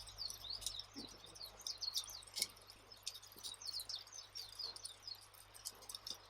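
Campfire ambience: wood fire crackling with scattered sharp pops, under a dense run of quick, high chirps.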